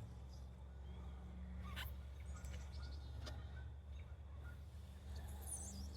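Faint outdoor ambience: a steady low hum with a few short high bird chirps, one about two seconds in and a quick falling run of chirps near the end.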